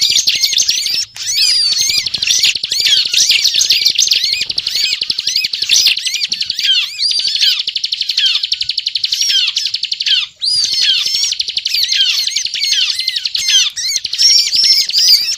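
Bar-winged prinia (ciblek) singing a fast, run-on chattering song of high, rapid notes, the continuous 'ngebren' delivery of a bird in full song. The song breaks off twice for a moment, about a second in and near ten seconds.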